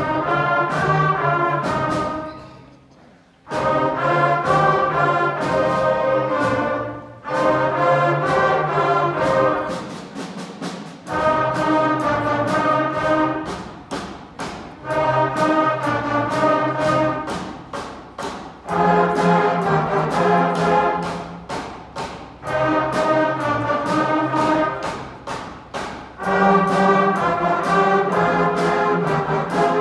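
Beginner school concert band playing a slow blues: brass and woodwinds in held chords phrase after phrase over a steady beat, with a brief break about three seconds in.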